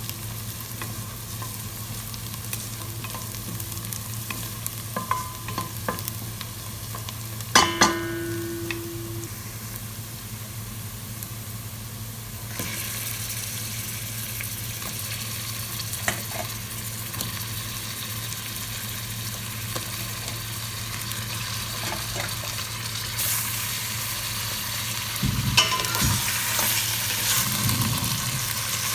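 Food sizzling and frying in a pan while it is stirred, the sizzle growing louder and brighter about twelve seconds in. A sharp metallic clink of a utensil on the pan rings briefly about eight seconds in, with more knocks near the end.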